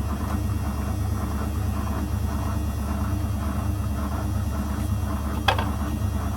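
Zanussi FL984CN washing machine running through a 35° wash program: a steady motor hum with rumble from the turning drum. Near the end there is one short, sharp sound that falls in pitch.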